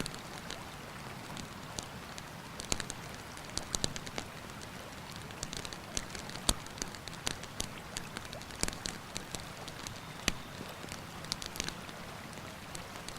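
Campfire crackling, with irregular sharp pops from the burning wood, over the steady rush of a river.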